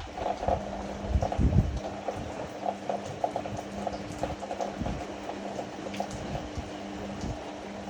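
Ariston AML125 washer-dryer drum turning, with water sloshing and clothes thudding over a steady motor hum that comes in just after the start.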